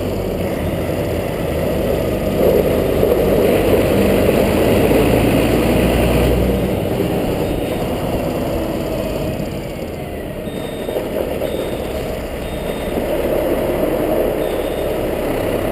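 Fire truck's engine running heavily with road and vehicle noise; from about two-thirds of the way in, a backup alarm beeps at a steady, regular pace, the sign of the truck reversing.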